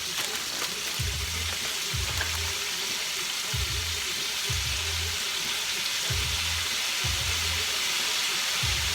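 Food frying in hot oil, a steady, dense sizzle. Underneath runs a low beat of paired thumps that repeats every couple of seconds.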